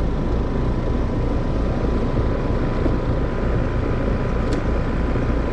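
Heat pump outdoor unit running, with a loud, steady hum from its compressor, which the technician takes for a compressor about to fail. A single light click comes about four and a half seconds in.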